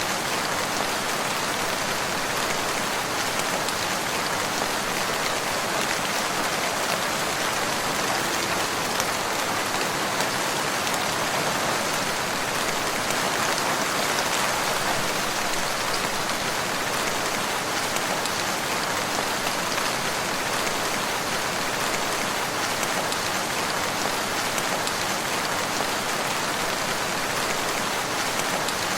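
Steady rain falling, an even patter of drops on a surface with no breaks or changes.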